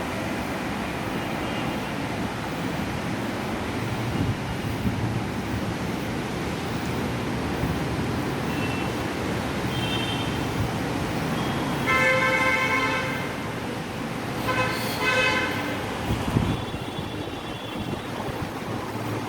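Steady road traffic noise, with a vehicle horn honking in two short spells about twelve and fifteen seconds in.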